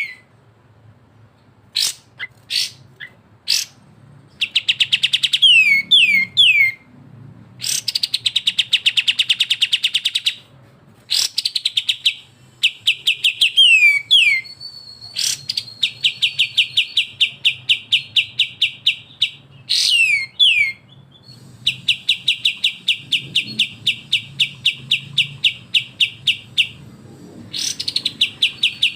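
Bulbul song of the kapas tembak and cucak jenggot kind: fast rattling trills of sharp repeated notes, about ten a second, broken by loud whistles that slide downward in pitch.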